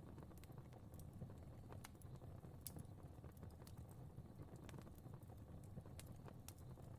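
Fireplace fire crackling faintly: irregular small pops and snaps over a low, steady rumble of burning.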